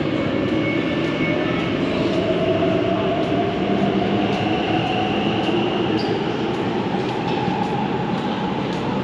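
Underground train running, its motor whine rising steadily in pitch as the train picks up speed, over the continuous rumble and rail noise.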